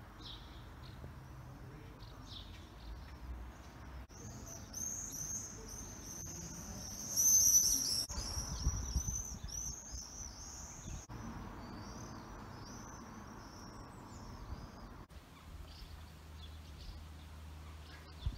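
Birds giving rapid, high-pitched chirping calls over faint outdoor background noise. The calls run for several seconds in the middle and are loudest partway through.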